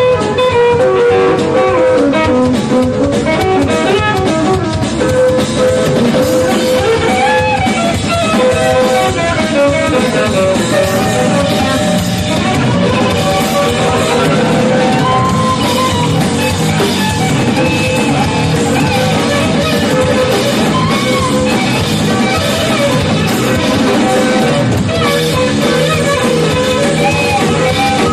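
A live band with drums, bass, keyboards, saxophone and electric guitar playing an instrumental rock-jazz number, loud and steady, a melody line bending over the rhythm section.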